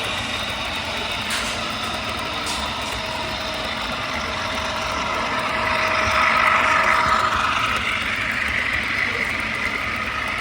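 Sound-equipped model diesel locomotive running, its engine sound played from a small onboard speaker. It swells in pitch and loudness about six seconds in, then eases off.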